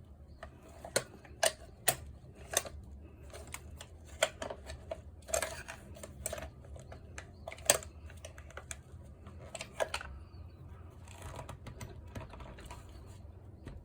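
Irregular sharp clicks and knocks of hand tools and small hard parts being handled while a reciprocating saw is taken apart, about eight distinct knocks in the first ten seconds, the loudest near the middle. A faint steady low hum runs underneath.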